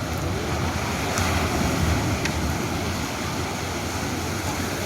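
Atlantic Ocean surf breaking and washing up a beach: a steady rush of water that swells slightly a second or two in.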